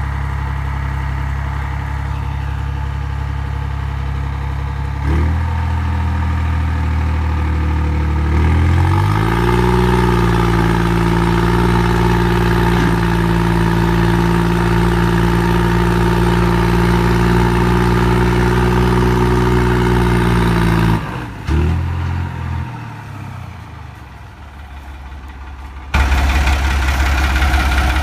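Diesel tractor engine running at idle, then revving up about nine seconds in. It holds high revs steadily for some twelve seconds, then drops back and dies down. Near the end a sudden change brings in another engine running.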